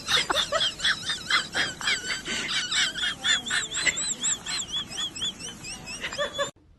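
An animal calling in a fast run of short, high chirps, several a second, ending abruptly near the end.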